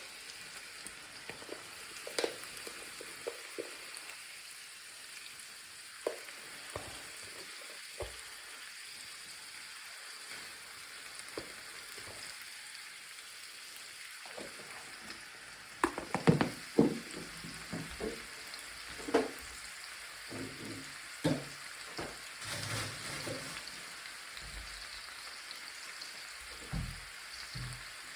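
Food sizzling in a frying pan, a steady hiss, with scattered clacks and scrapes of a utensil stirring it. The knocks come thicker about halfway through.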